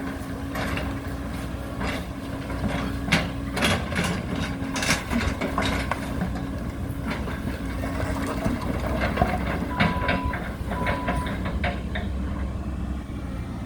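Heavy demolition machinery with its diesel engine running, over repeated sharp cracks and knocks of breaking building material. Two short beeps sound about ten and eleven seconds in.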